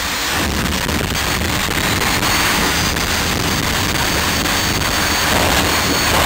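Jet dragster's jet engine running at full power: a loud, steady roar with a faint high turbine whine riding over it.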